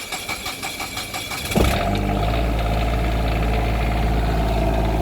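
Cummins Onan 7.5 kW Quiet Diesel generator being cranked on its starter with rapid, regular strokes, then catching about a second and a half in and settling into a steady run.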